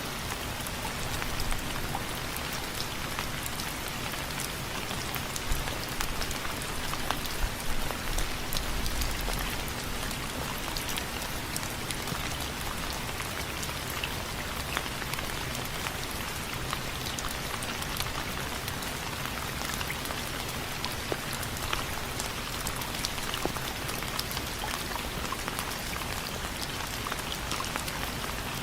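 Steady rain pattering on window frames, with many close, distinct drop ticks over an even hiss of rainfall.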